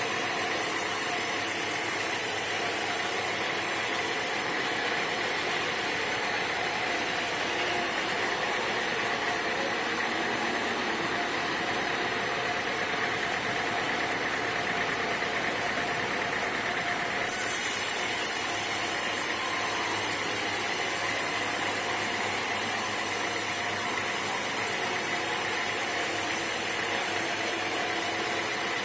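Sawmill machinery running steadily, an even engine-like noise with a constant high hum and no breaks.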